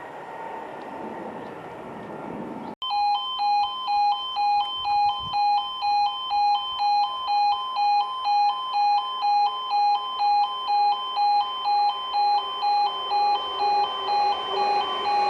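Level crossing audible warning alarm: a two-tone electronic alarm switching back and forth between two pitches just under twice a second, starting suddenly about three seconds in. Before it, a few seconds of passing train noise.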